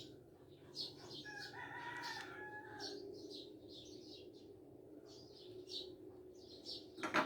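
A rooster crows once, a single drawn-out call starting about a second in, over the repeated high chirping of small birds and a steady low hum. A sharp click sounds near the end.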